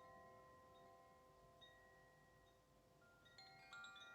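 Faint metal chimes ringing: several clear high tones slowly fading out, then a new cluster of chime strikes near the end.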